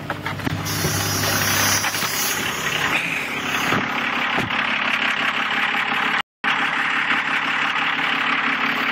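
A 12-valve Cummins inline-six diesel running with steady diesel clatter just after a cold start at −7 °F. The sound cuts out for a split second about six seconds in.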